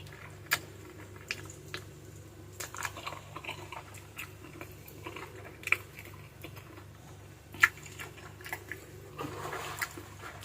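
Chewing and biting on adobo chicken feet close to the microphone, with scattered sharp clicks and small crunches.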